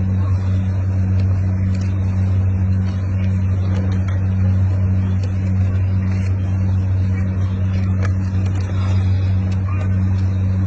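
A steady low hum at an even pitch, unchanging in level.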